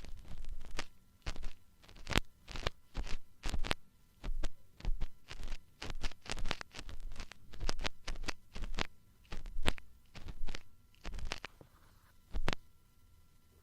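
Ear-cleaning tools scraping and tapping on an ASMR microphone's ear, heard close up as a rapid, irregular series of sharp scratches about two or three a second, easing off near the end.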